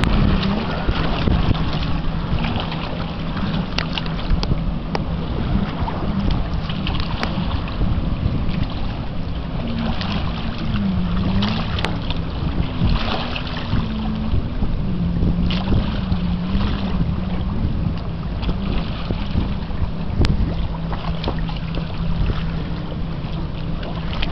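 Wind buffeting the microphone over a steady low engine drone that wavers in pitch now and then, with a few faint handling clicks.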